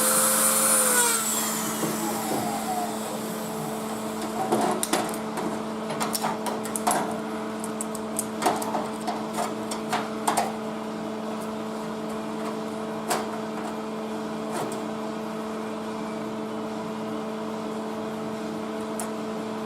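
A high-pitched power tool winds down within the first second. After that come scattered sharp knocks and taps, mostly over the next several seconds, over a steady machine hum.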